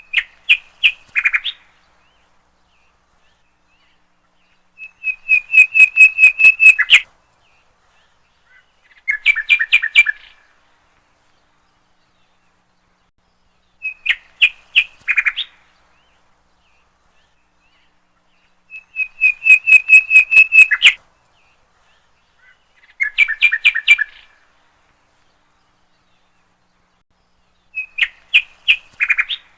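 A songbird singing short phrases of rapid chirping notes, each about one and a half to two seconds long, with silent pauses of a few seconds between. Three different phrases come in turn, and the same sequence repeats about every fourteen seconds.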